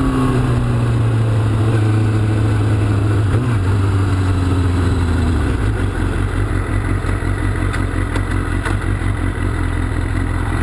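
Kawasaki Ninja sport bike's engine running, its note sagging as the bike slows, then dropping to a lower steady note about halfway through.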